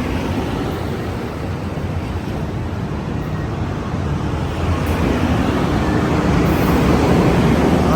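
Amtrak Capitol Corridor passenger train passing at speed: steady rumble and wheel-on-rail noise that grows louder in the second half as its Siemens SC44 Charger diesel locomotive draws near.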